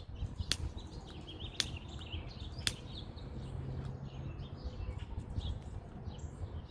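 A lighter clicked three times, about a second apart, without catching. Birds chirp faintly in the background.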